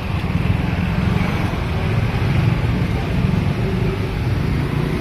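Steady low engine rumble of nearby street traffic.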